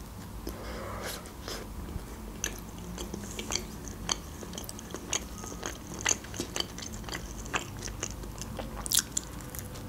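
A bite into a small homemade pizza, then chewing with short crisp crunches and mouth clicks. The sharpest crunches come about six seconds in and near the end.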